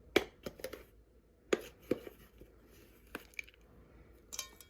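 Measuring spoon tapping and clicking against a container while spoonfuls of garlic powder are measured out: about eight short, sharp taps at uneven intervals.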